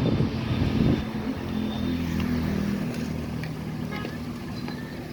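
A motor vehicle's engine running at a steady pitch, with road noise.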